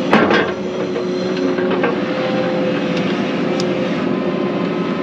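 Excavator engine and hydraulics running steadily under load while digging, with a short sharp clank right at the start.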